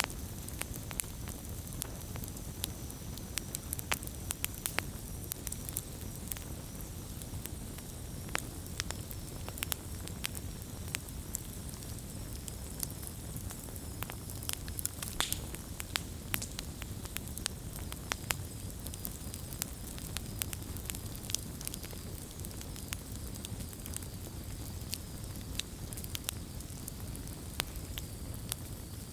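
Wood campfire burning steadily, with frequent sharp crackles and pops over a low rumble of the flames.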